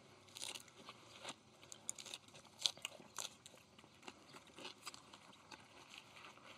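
Close-up chewing of mouthfuls wrapped in fresh lettuce and perilla leaves, with irregular soft crunches of the leaves being bitten and chewed.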